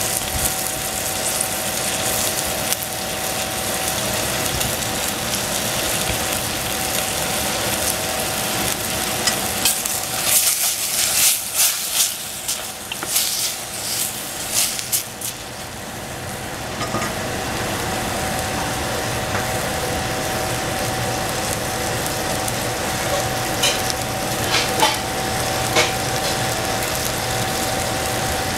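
Oyster mushrooms and vegetables sizzling as they fry in a stainless steel saucepan. For a few seconds about ten seconds in, a wooden spatula stirs them, scraping and clacking against the pan.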